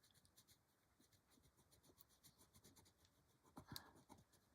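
Faint scratching of a colored pencil on paper, many short quick strokes, with one firmer stroke near the end.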